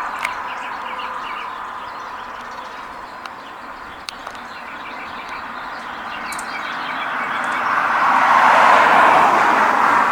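Passing traffic noise that eases off, then swells to its loudest near the end as a vehicle goes by. Faint bird chirps come through over it.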